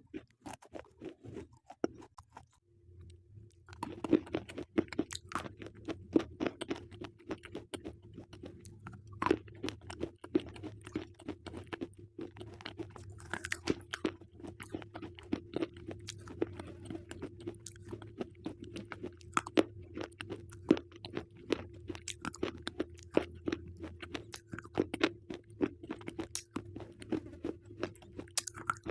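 Slate pencils being bitten and chewed, with many sharp, irregular crunches. It is sparse for the first few seconds, then dense crunching from about four seconds in, over a steady low hum.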